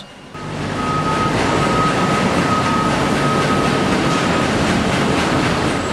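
Steady mill machinery noise with a thin, steady high whine over it, cutting in suddenly just after the start.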